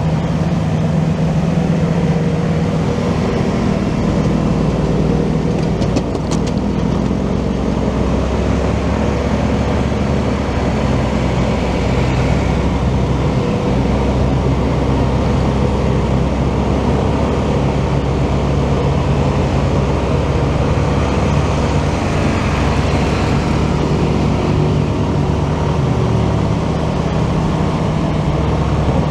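Motorcycle engine running steadily under way, with wind and road noise around it. Near the end the engine note drops and then picks up again.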